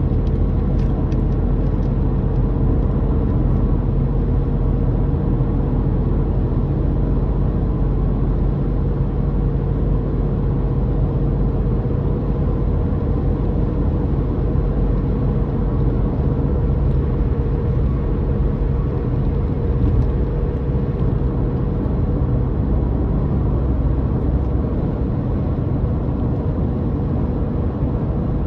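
Car engine droning steadily with a constant low rumble from the road while driving at a steady speed.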